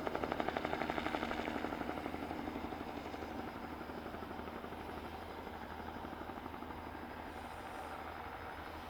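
Bell 206B-3 JetRanger III helicopter's two-blade main rotor beating in a fast, even rhythm, growing steadily fainter.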